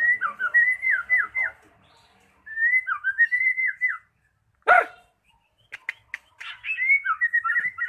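White-rumped shama (murai batu) singing: three bursts of quick whistled notes, many sliding downward, with a single sharp harsh call about halfway through and a few short clicking notes just after it.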